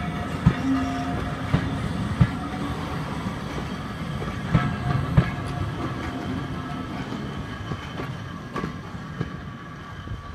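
Vintage steam-railway passenger coaches rolling past at trackside, their wheels clattering and knocking irregularly over the rail joints. The sound grows quieter as the last coach passes and the train draws away.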